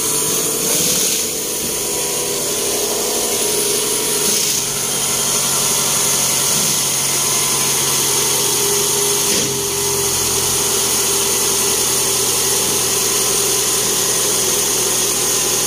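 Replacement engine in a 2009 Toyota Camry idling steadily, newly running once a faulty ground that had kept it from starting was fixed.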